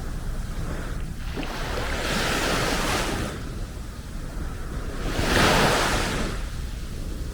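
Small sea waves breaking and washing up the beach: two surges of hiss about three seconds apart, the second louder.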